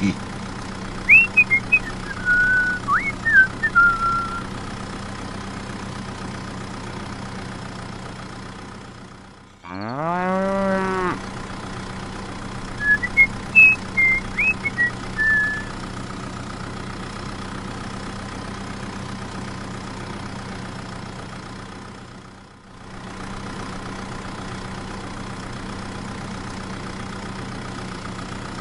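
A steady motor hum, with one rising cow moo of about a second and a half near the middle. Two short bursts of bird chirping come near the start and again a little after the moo.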